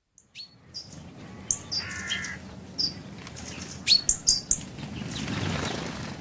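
Birds chirping and calling in short high notes over a low steady background, with a swell of rushing noise a little after five seconds.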